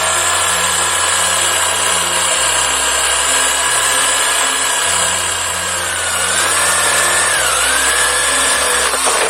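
Homemade grass chopper running with a steady high motor whine; its pitch sags twice and recovers about six to seven seconds in, then the sound cuts off near the end.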